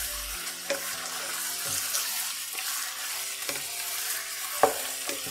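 Raw chicken pieces sizzling in hot oil with onions in a wok on medium flame, the first stage of browning until the meat changes colour. A wooden spatula stirs them, knocking and scraping against the pan several times, hardest about four and a half seconds in.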